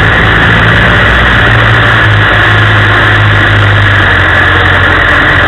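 Land Rover engine running steadily while driving off-road, heard loud from inside the cab, with a steady low drone and a rough hiss over it.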